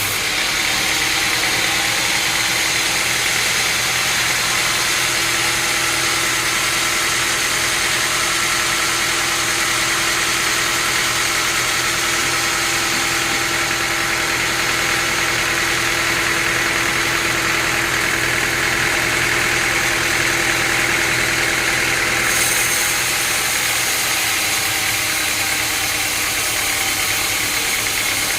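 Sawmill machinery running steadily, a constant engine-like hum with a hissing high band and no clear cuts or impacts.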